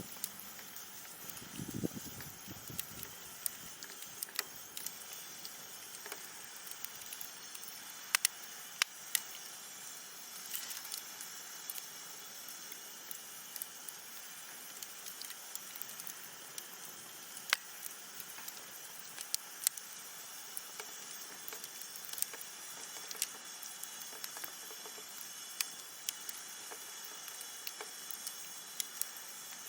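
Wood fire burning with a steady hiss and irregular sharp crackles and pops, and a short low rumble about two seconds in.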